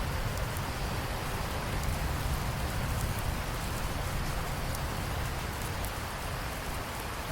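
Steady heavy rain, with a low rumble of distant thunder underneath that dies away near the end.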